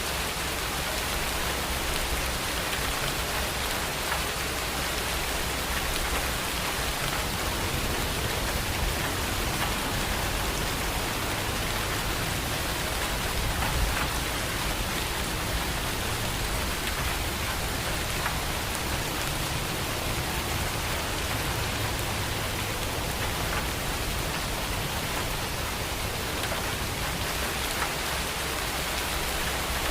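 Steady rain falling: a dense, even hiss of drops that holds at the same level throughout.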